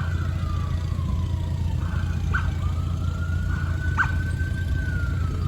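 Emergency vehicle siren wailing, its pitch slowly rising and then sliding down in repeated cycles, with a few short chirps over a steady low rumble.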